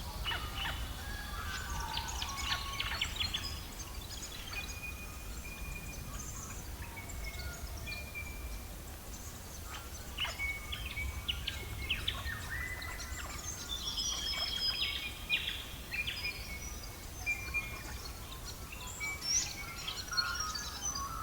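Birdsong: many short whistled notes and chirps from several birds, over a steady low rumble.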